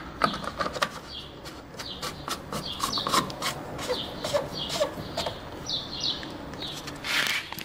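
Small birds chirping over and over, with scattered clicks.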